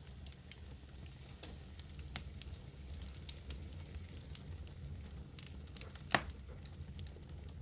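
Wood fire burning: a steady low roar with scattered crackles and one louder pop about six seconds in.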